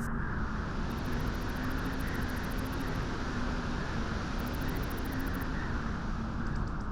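Wind blowing steadily at a beach, a constant low rushing noise with no gusts or breaks.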